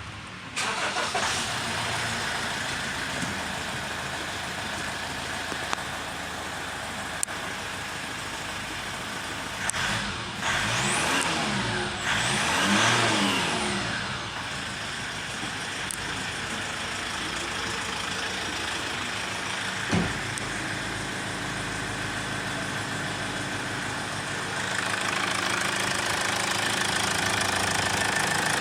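Toyota RAV4 engine running steadily. Near the middle it is revved up and let back down twice. A single knock comes about two-thirds of the way through, and the engine runs louder for the last few seconds.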